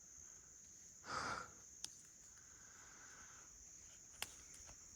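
Steady high-pitched drone of insects in the woods. A brief rustle comes about a second in, and two small sharp ticks follow later.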